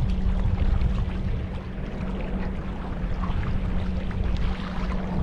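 Small battery-powered boat under way on a river: wind rumbling on the microphone over water noise, with a steady low hum from the electric motor.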